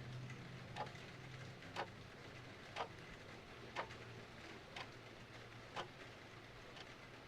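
Clock ticking once a second, the ticks alternating slightly louder and softer, over a faint steady hiss of rain.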